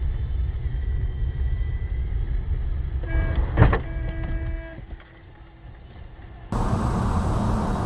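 Dashcam recording of car engine and road noise, with a sharp knock and a steady tone of about a second and a half in the middle. Near the end the sound changes abruptly to louder, hissier road noise from a different recording.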